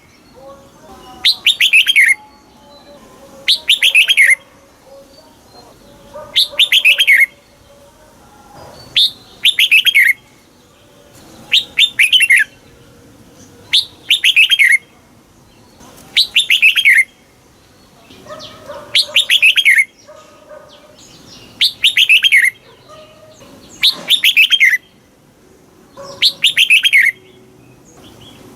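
Red-whiskered bulbul singing its song over and over: a short, loud phrase of quick notes that fall in pitch, repeated about every two seconds, roughly a dozen times.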